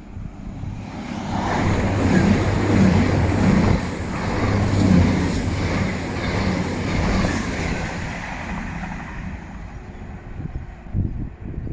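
A train passing by. Its noise builds over the first couple of seconds, stays loud for several seconds, then fades away.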